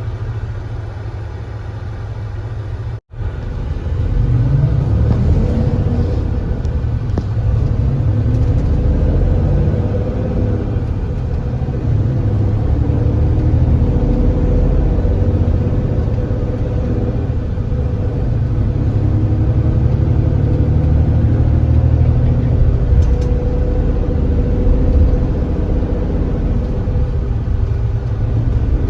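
Kia Granbird Sunshine coach's engine running with a steady low rumble. After a momentary dropout about three seconds in, its pitch rises as the coach accelerates, then it settles into a steady run.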